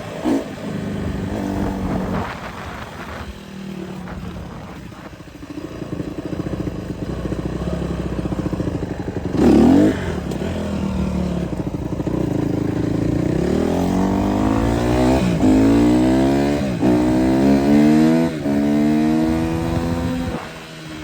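Honda CRF150R dirt bike engine running under way, a brief sharp rev about halfway through, then climbing in pitch and dropping back three times as it pulls up through the gears, before easing off near the end.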